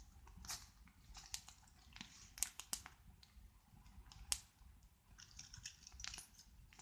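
Wood campfire crackling: scattered irregular snaps and pops, with a few sharper cracks about two and a half seconds and four seconds in.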